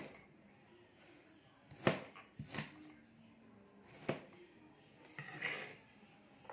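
A few sharp knocks in a small room, spaced irregularly: two close together about two seconds in, another about four seconds in, then a brief scuffling sound near the end.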